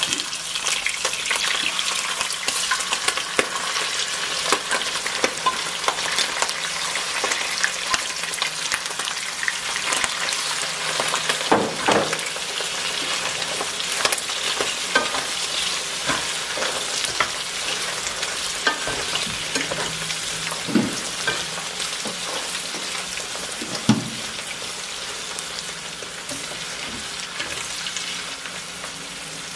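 Diced fat and liver pieces sizzling and crackling in hot oil in a frying pan, stirred with a wooden spatula that knocks against the pan a few times.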